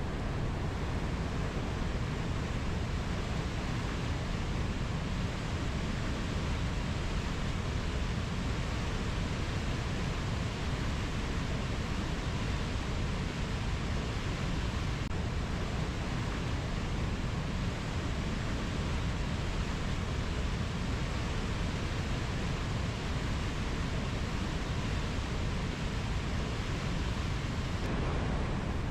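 Rainforest nature ambience: a steady, even rushing noise, heaviest in the low range, with no distinct bird or insect calls standing out.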